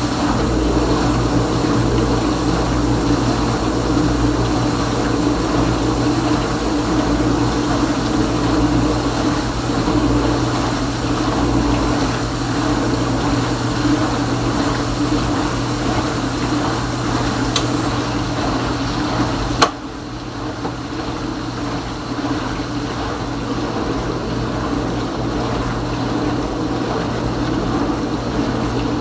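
Kenmore Ultra Wash 3 dishwasher running, its pump humming steadily with water spraying inside the tub. A sharp click about two-thirds of the way through, after which the running goes quieter.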